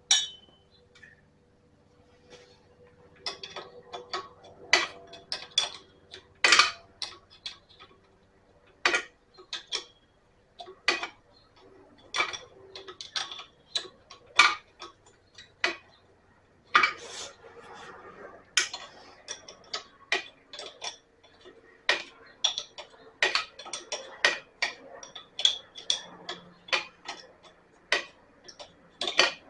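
Hand tools and metal engine parts clinking, clicking and knocking irregularly, with occasional quick runs of small ticks, as a fuel-line fitting and tank are worked loose on an old hit-and-miss engine.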